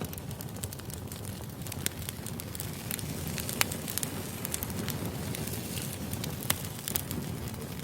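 Firewood burning: a steady low rumble of flames with irregular sharp pops and snaps from the wood, a few louder cracks standing out.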